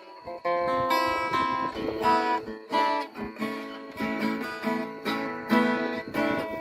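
Acoustic guitar being played, a passage of picked notes and strummed chords with no singing.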